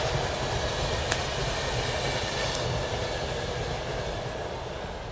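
A passing train running over the rails, its rumble slowly fading as it moves away, with one sharp click about a second in.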